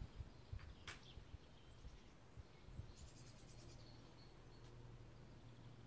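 Near silence with faint bird chirping outdoors, including a short high trill about three seconds in, and a single faint click about a second in.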